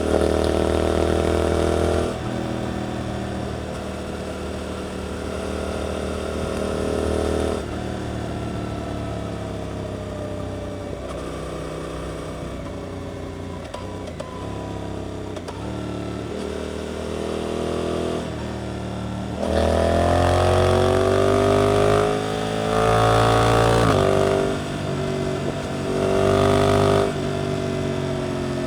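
Suzuki GSX-8S parallel-twin engine through an Arrows aftermarket exhaust, ridden on a twisty road. A loud pull under throttle at the start gives way to a long quieter stretch off the throttle with the revs slowly falling; then, from about two-thirds in, three or four hard accelerations, each climbing in pitch and broken by a short dip.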